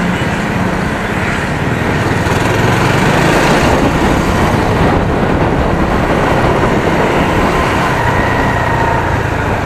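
A 250 cc single-cylinder motorcycle engine on its stock exhaust, running steadily under way. Wind noise and road traffic noise run with it.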